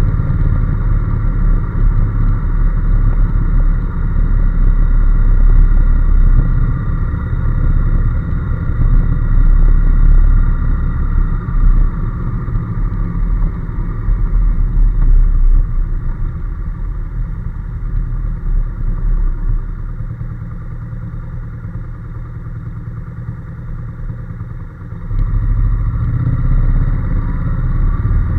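Honda NC750S motorcycle on the move, its 745 cc parallel-twin engine running under a heavy low rumble. The sound eases off in the latter part and comes back louder abruptly a few seconds before the end.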